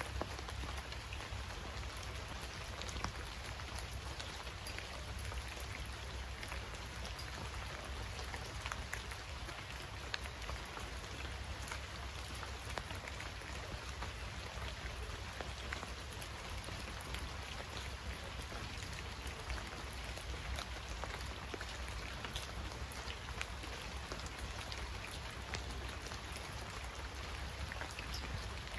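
Steady rain falling, with many small sharp drop hits over an even hiss and a steady low rumble underneath.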